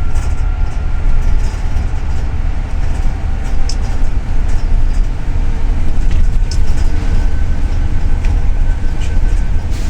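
Double-decker city bus on the move, heard from inside: a steady low rumble of engine and road, with a few faint clicks and rattles.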